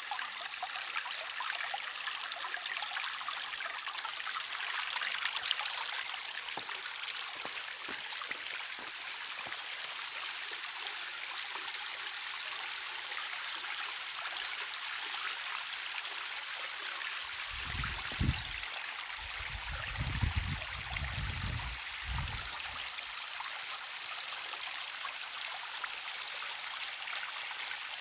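Water running steadily with an even rushing hiss. A few brief low rumbles come about two-thirds of the way through.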